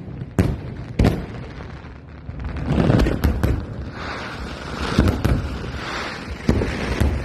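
Fireworks going off: a string of sharp bangs and booms, several in close succession, with a rolling crackle between them.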